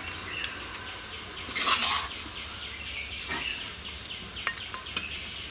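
Bird chirps over a steady low hum, with two short scraping bursts: one about two seconds in and another a second and a half later.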